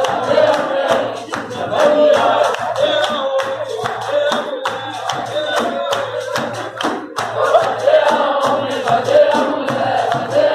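A group of voices singing together over a steady beat of sharp percussive hits, about two to three a second.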